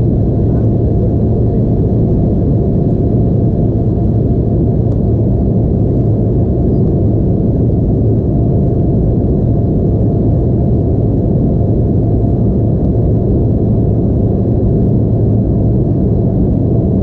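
Steady, loud cabin rumble heard inside an Embraer E175 airliner: its two GE CF34 turbofan engines running, with a constant low hum and a fainter higher tone over the roar.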